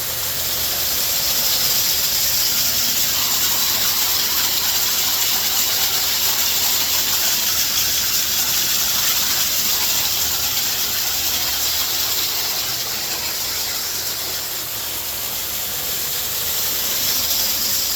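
Large pond waterfall rushing, heard from the grotto behind the falling water: a steady, loud hiss of water.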